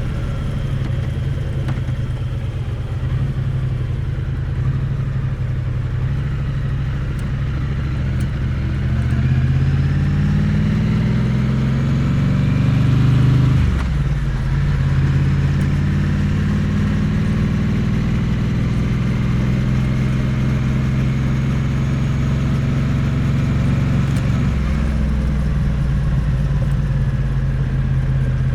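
Triumph Bonneville T100 parallel-twin engine and exhaust under way, heard close up from beside the exhaust. The revs climb for several seconds, drop sharply about halfway through, then hold fairly steady.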